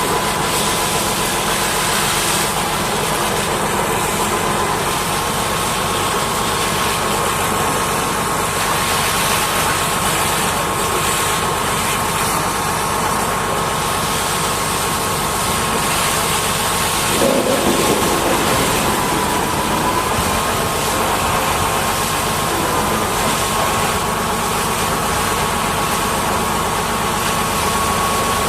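Pressure washer spraying a steady water jet, with a high whine from the washer's pump that stays steady throughout and wavers slightly in pitch.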